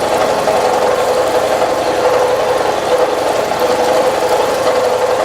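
Milling machine taking a cut with a 5/8-inch two-flute high-speed-steel ball end mill at about three-quarter depth under flood coolant. It makes a steady, even hum at one mid pitch over a hiss.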